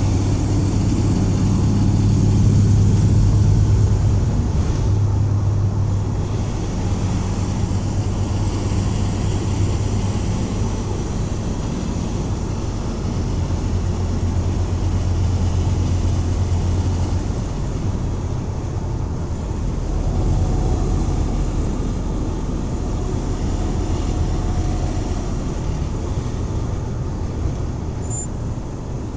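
1984 Dodge van's engine running while driving, a steady low drone under road noise that swells and eases a few times.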